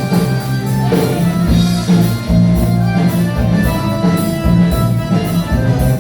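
Live band playing, with electric guitar, bass guitar and drum kit keeping a steady beat.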